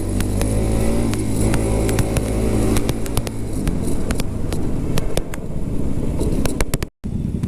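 Motorcycle engine running steadily while riding in traffic, with wind noise and sharp clicks on the microphone. The steady engine note fades into a noisier traffic sound about halfway through. The audio cuts out for a moment near the end.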